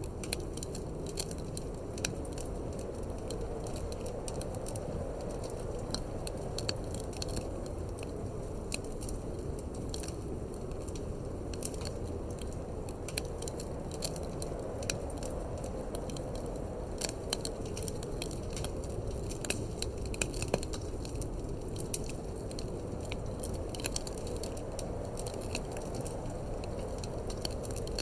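Wood fire crackling in a fireplace, with frequent sharp pops and snaps over a steady low rush of wind that swells and fades slowly.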